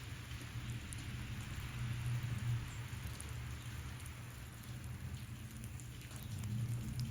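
Steady outdoor background noise: an even, rain-like hiss over a low, fluctuating rumble, with no clear bird calls.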